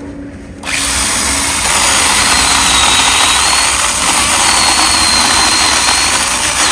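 Handheld battery-powered pruning saw cutting through the trunk of a field-grown bonsai tree, starting up about a second in and running loud and steady with a faint high whine.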